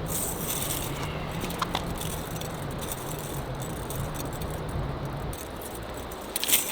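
Light rattling and clicking, the sharpest click near the end, over a steady low rumble of wind that dies down shortly before it.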